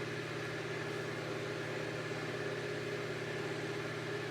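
Steady low mechanical hum with a few held tones, unchanging throughout.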